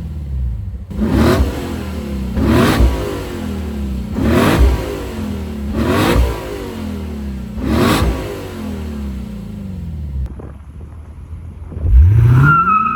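2024 Lexus IS 500 F Sport's 5.0-litre V8 being revved in quick blips, five rises and falls in pitch about a second and a half apart. It settles briefly, then revs hard again about 12 s in, and a high steady squeal begins near the end.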